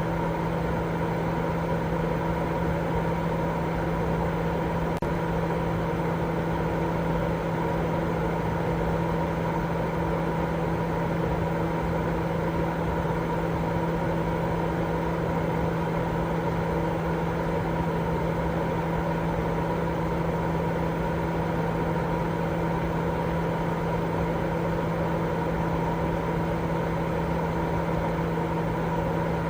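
Steady baby-sleep white noise: an unchanging rushing hiss, weighted toward the low end, with a constant low hum running through it.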